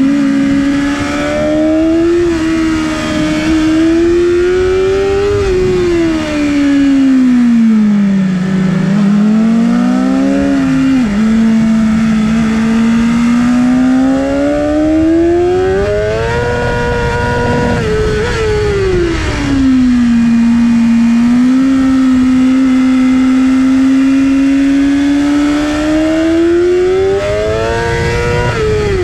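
Onboard sound of a 2019 BMW S 1000 RR's inline-four engine at speed on track, under wind rush. The engine's pitch climbs under throttle and sinks off it several times: a long rise over the first five seconds, a fall, a long climb that peaks about two-thirds of the way through and drops, a steadier stretch, and a final climb that drops sharply at the very end.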